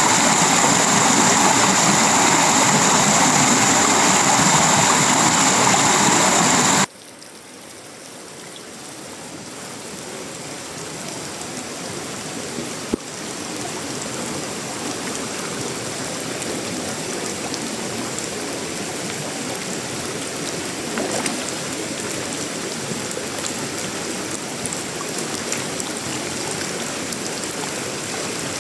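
Tropical rain falling on a sheet-metal roof, wood and leaves, a steady hiss. A louder, denser stretch cuts off abruptly about seven seconds in; the rain then fades back up and holds steady, with a single sharp click near the middle.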